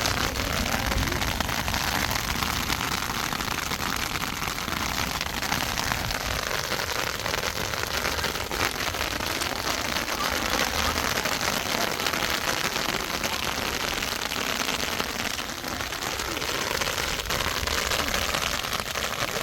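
Rain falling steadily, an even hiss of drops with no break.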